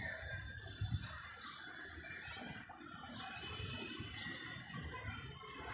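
Birds chirping: short, high chirps come every second or so over a low, uneven rumble.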